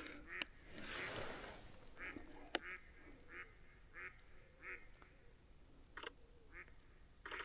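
A bird giving a run of short, evenly spaced calls, about one every two-thirds of a second, then a couple of brief rustling noises near the end.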